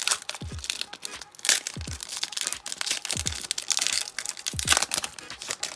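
A foil Pokémon booster pack wrapper being crinkled and torn open, a dense crackling, over background music with a steady low beat.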